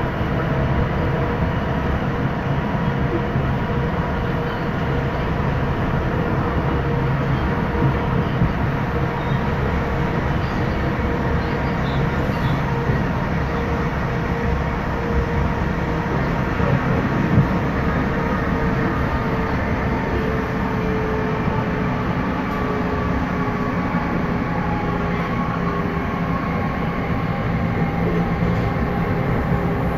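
Passenger train running along the line, heard from inside the carriage: a steady rumble of wheels on rail with a faint steady whine and an occasional small knock.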